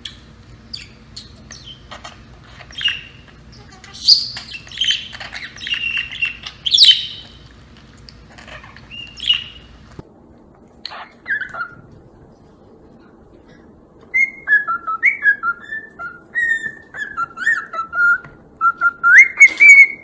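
Pet parrot calling in short chirps, whistles and squawks. Later comes a quicker run of short chirping notes that ends in a louder rising call.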